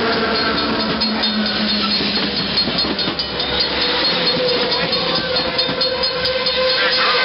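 Train running close by: a loud, steady rail noise with several held tones over it.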